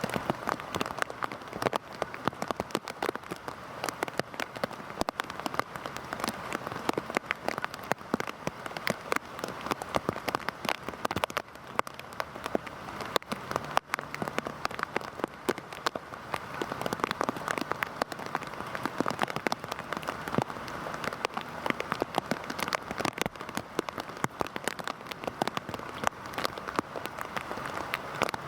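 Heavy rain falling steadily, a dense hiss with many individual drops ticking sharply.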